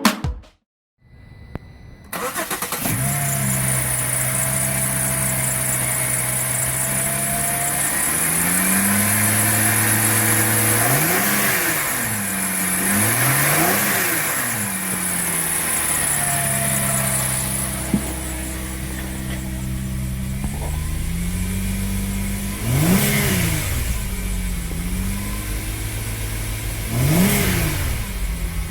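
2008 Holden Captiva engine starting about two seconds in and settling into a steady idle, then revved four times, each rev rising in pitch and falling back to idle.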